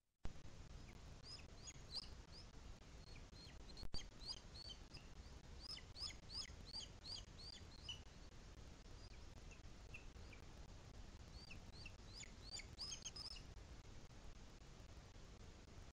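Bird chirping: series of short, high chirps, a few a second, in two bouts with a pause between, over a low steady background noise.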